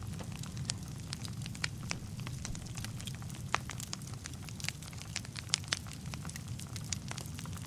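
Wood fire burning in a fireplace: a steady low rumble of the flames with frequent irregular crackles and pops, a few sharper snaps standing out.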